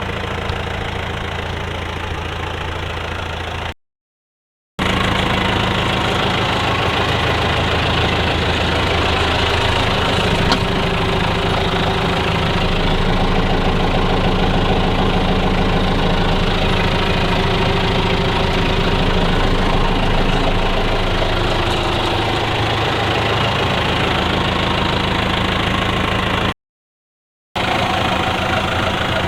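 The Perkins diesel engine of a 1998 Linde H45D forklift runs steadily. The sound cuts out to silence for about a second twice, once about four seconds in and once near the end.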